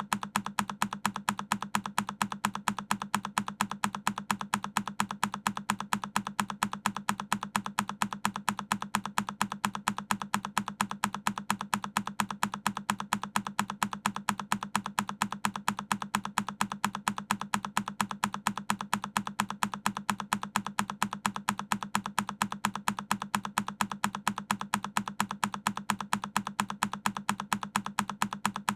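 A single key on a Keychron K10 mechanical keyboard being pressed over and over in an even, rapid rhythm of several clicks a second, each press identical.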